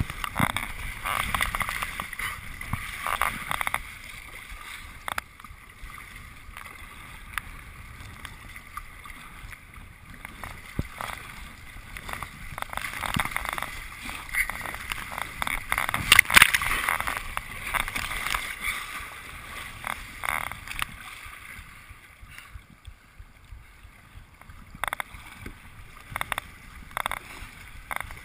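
Kayak paddle strokes splashing in the water, with water gurgling along the hull. The splashes come irregularly and are loudest about sixteen seconds in.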